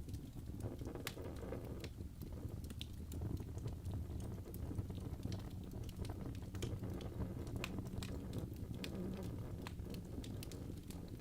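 Birch logs burning in a fireplace: a steady low rumble of flame with frequent sharp, irregular crackles and pops.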